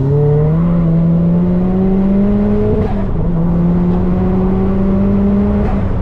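Car engine pulling hard on a sprint track, its pitch rising steadily. It drops sharply at an upshift about three seconds in, then climbs again through the next gear and eases off near the end.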